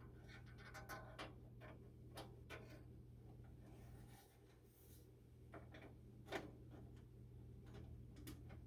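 Faint scattered clicks and light metal taps of a screwdriver and screw as a cleaned furnace flame sensor is fastened back on, the loudest about six seconds in, over a low steady hum.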